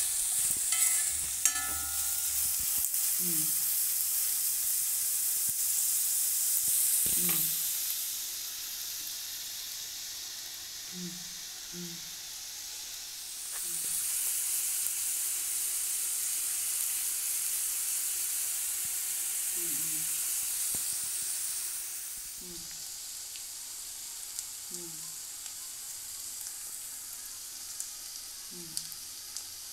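Sliced onions sizzling as they fry in oil in a metal kadai, stirred with a spatula at the start. The sizzling eases off twice, about eight seconds in and again about twenty-two seconds in.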